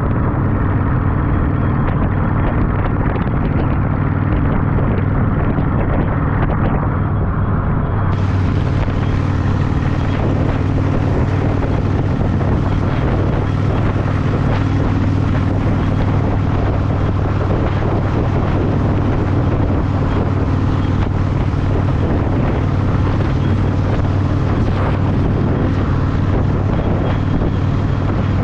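Yamaha V-Star 1100's air-cooled V-twin engine running at a steady cruising speed, with wind noise on the microphone.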